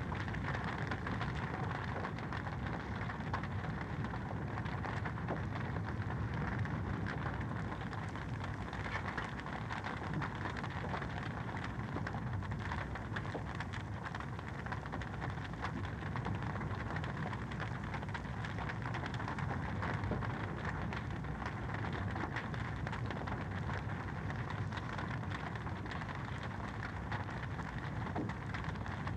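Wood fire crackling in a fireplace: a steady rushing noise dense with small pops and snaps.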